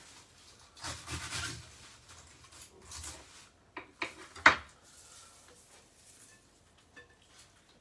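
Knife cutting a wedge off a white cabbage on a chopping board: a few rasping strokes through the leaves, then a cluster of sharp knocks of the blade on the board around four seconds in, the last of them the loudest.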